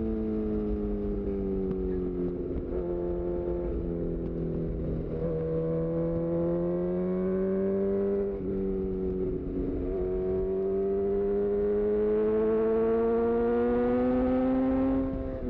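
2018 Honda CB1000R's inline-four engine through a full aftermarket exhaust. The revs drop early on, then the bike accelerates through the gears. The pitch climbs, dips briefly at a quickshifted upshift about eight seconds in, climbs again and falls off sharply at another shift near the end. A low rumble of wind and road noise runs underneath.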